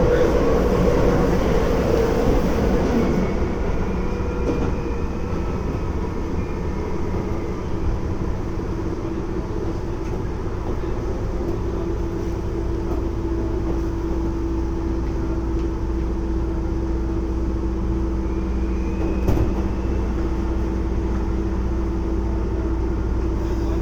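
Keisei 3400 series electric train running, heard from inside the car: a steady rumble of wheels on rail with a steady electrical tone from the field-chopper control, which grows stronger about halfway through. A single sharp knock comes about 19 seconds in.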